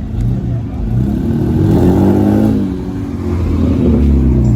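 Car engine revving: its pitch climbs about a second in, then drops back, and the engine runs steadily again near the end.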